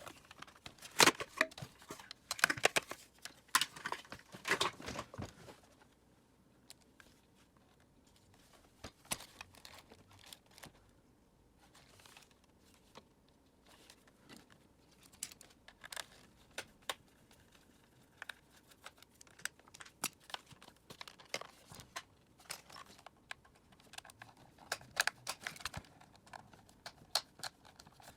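Plastic parts of a Dyson vacuum cleaner being handled and taken apart by hand: irregular clicks, taps and crinkly rustles. These are busiest in the first five seconds, then become scattered clicks and pick up again near the end.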